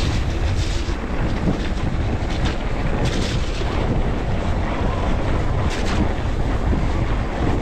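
Wind rushing over the camera microphone on a moving mountain bike, with the bike clattering over rough trail in several short knocks.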